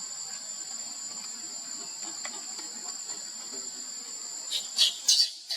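Steady, high-pitched drone of insects, two even tones held without a break. Near the end, a few short, loud, high-pitched sounds break in over the drone.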